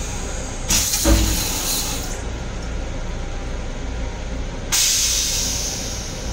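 Steady low rumble of a Long Island Rail Road M7 railcar, with two loud bursts of hissing about four seconds apart, each lasting a second or more.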